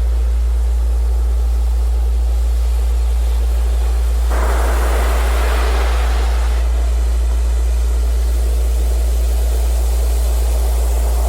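A steady low-pitched tone, the kind played as a Rife frequency, layered over the hiss of ocean surf. A louder rush of surf starts suddenly about four seconds in and falls back about two seconds later.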